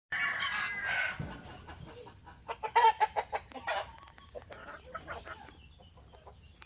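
Backyard chickens clucking: a louder call in the first second, then a run of short clucks from about two and a half to four seconds in, tapering off to fainter calls.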